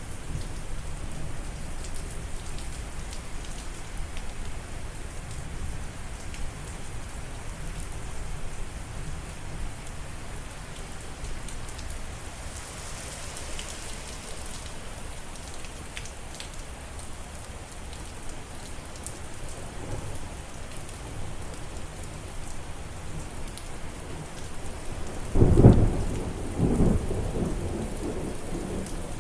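Steady heavy rain falling, with low thunder rumbling under it. Near the end a loud clap of thunder breaks in and rolls on in a few smaller surges.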